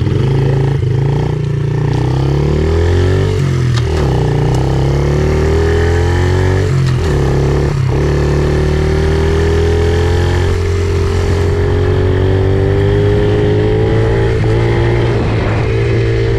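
A pit bike's small engine running while being ridden, loud and steady. Its pitch rises and falls with the throttle, dipping briefly about four and seven seconds in, then climbs slowly and evenly.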